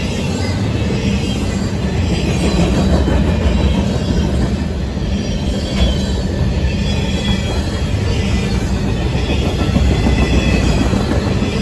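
Double-stack intermodal well cars of a freight train rolling past at close range: a loud, steady rumble of wheels on rail, with faint high squeals coming and going.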